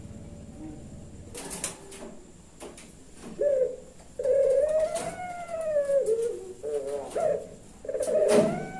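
Puter pelung dove cooing. After a quieter start, a short coo comes about three and a half seconds in, then one long arching coo, then a few shorter broken notes near the end. A few sharp clicks are heard along with it.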